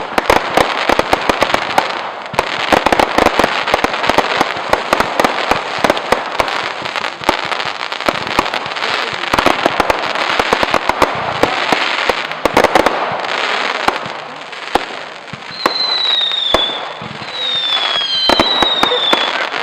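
Fireworks display: a dense, continuous run of crackling bangs and pops, thinning out after about thirteen seconds. Near the end come several short high whistles, each falling slightly in pitch, one after another.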